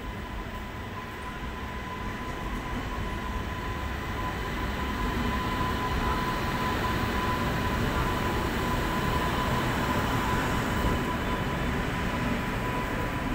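Electric locomotive and its coaches passing directly below, a steady rumble that grows louder over the first several seconds as the locomotive comes underneath. A thin steady whine runs through it.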